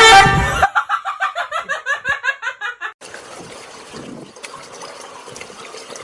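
A bird's loud call at the start, then a rapid string of short calls, about five a second, for about two seconds. At about three seconds these give way to a fainter steady noisy background.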